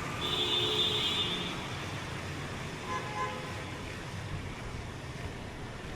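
Road traffic running steadily, with a vehicle horn sounding for about a second near the start and a shorter beep about three seconds in.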